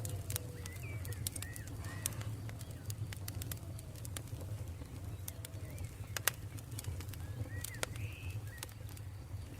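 Campfire crackling with frequent sharp pops over a steady low rumble of burning, and birds calling throughout: short chirps and repeated lower falling whistled notes. The loudest pop comes a little after the middle.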